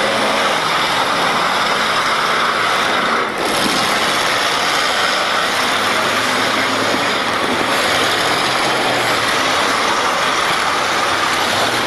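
Demolition derby cars' engines running together in a loud, steady din, with a brief drop about three seconds in.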